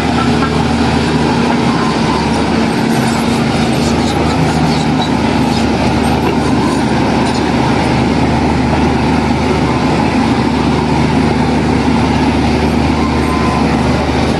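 Heavy diesel engine of an earthmoving machine running steadily under load, with a deep continuous hum and faint high clanks scattered through it.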